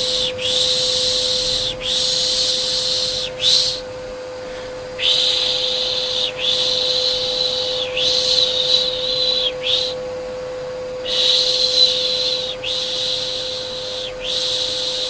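Repeated soothing 'pışşş' shushing for a baby: long hissing shushes of about a second and a half each, in runs of three with a quick short one after, separated by short pauses. Under it, a steady unchanging hum of a vacuum cleaner motor.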